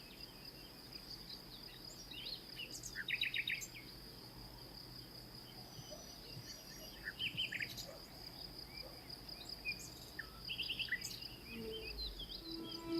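Birds chirping and giving short fast trills every few seconds over a continuous high-pitched steady hum.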